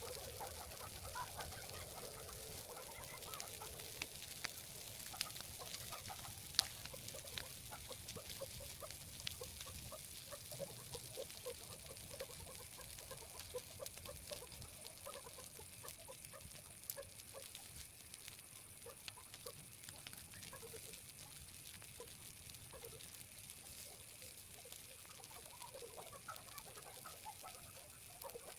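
Chickens clucking: many short, soft calls in a loose, irregular run, with a few faint sharp clicks among them.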